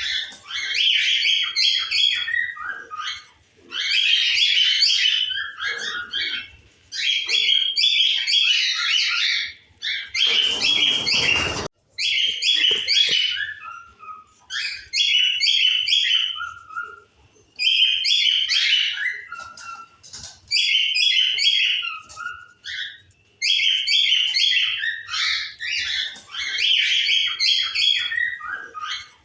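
Cockatiels chirping and calling in dense bursts of a second or two, with short pauses between. About ten seconds in, a rush of noise lasting about a second cuts across the calls.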